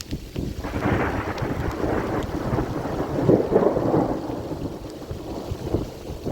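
A roll of thunder rumbling over steady rain. It builds about half a second in, is loudest around the middle, and dies away near the end.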